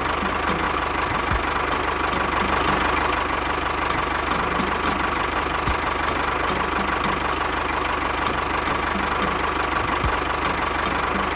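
Steady engine-like running from a DIY mini tractor's motor, idling without change, with a light regular ticking about two to three times a second.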